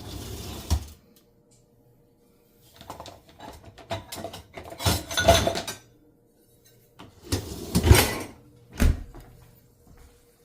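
Kitchen drawers and cupboards being opened and shut and utensils rattled in a search for a spatula, in several bursts with short pauses between, ending with a sharp knock.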